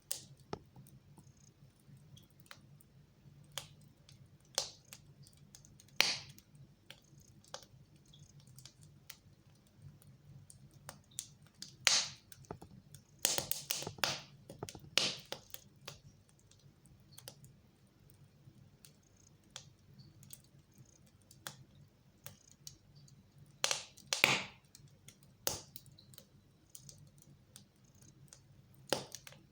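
Fire burning in a fireplace, crackling with irregular sharp pops and snaps, a few louder clusters of crackles about halfway through and again near the end.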